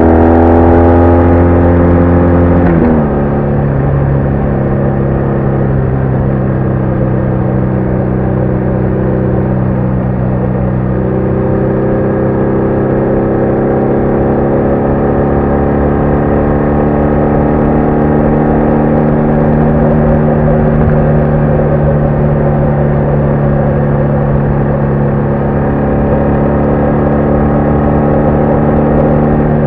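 BMW R1200R boxer-twin engine under way on the road. The engine note drops sharply about three seconds in, then runs steadily with small slow rises and falls in pitch.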